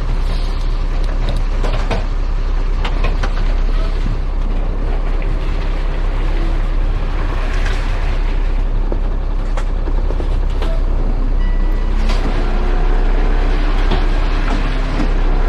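Heavy truck engine running steadily with a constant low rumble, and a few light clicks and knocks over it.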